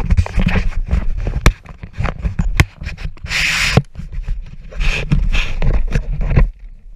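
Footsteps scraping and crunching on rough ground, with a few sharp knocks. It cuts off suddenly near the end.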